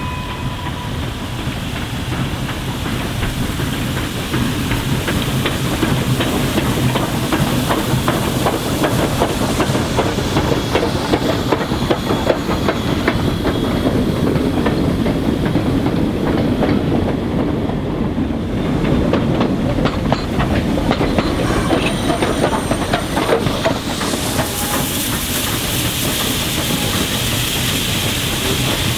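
Train rolling past close by, its wheels clattering steadily over the rail joints.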